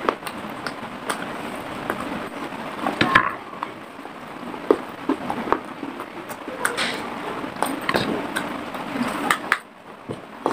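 Dry clay from a clay pot being chewed right at a clip-on microphone: irregular sharp crunches and crackles, easing off briefly near the end.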